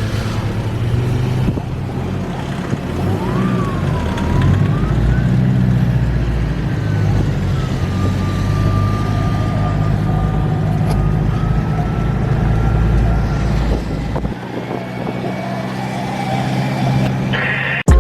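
Four-wheel-drive engine running steadily while driving on the beach, with a thin high whine that rises and falls and then holds. The engine's low rumble eases off about fourteen seconds in.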